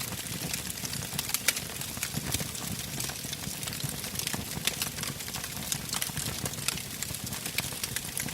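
Wood campfire burning with a steady low rush of flames and irregular sharp crackles and pops from the burning logs, the loudest pop about a second and a half in.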